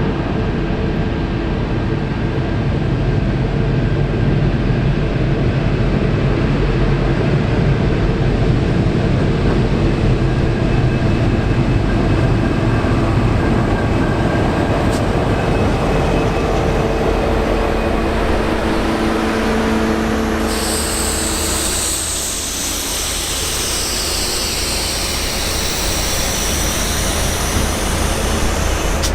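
V/Line N class diesel locomotive and its carriages running through a station, a steady engine hum with droning tones. About two-thirds of the way through, a high-pitched metal squeal from the train's running gear starts, with several falling tones.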